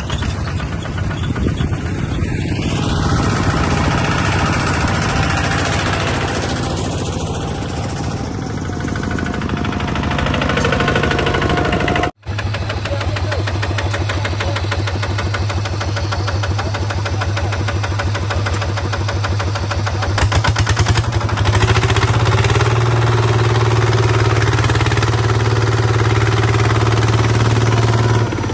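A bulldozer's engine running continuously. It cuts out for a split second about twelve seconds in, then runs on with a steady low drone that gets a little louder about twenty seconds in.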